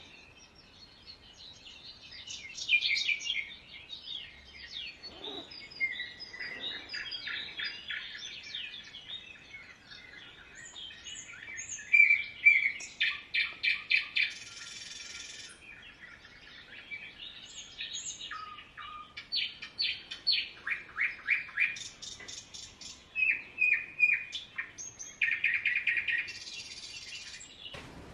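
Small songbirds chirping and warbling, broken by several fast trills of evenly spaced notes, the loudest about halfway through.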